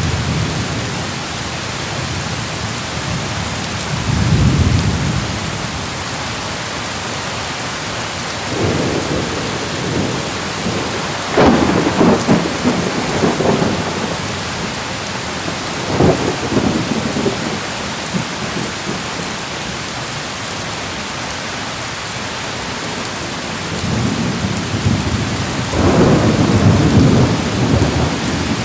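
Thunderstorm: steady heavy rain with several rolls of thunder, the loudest a sharp crack and rumble about twelve seconds in and another long rumble near the end.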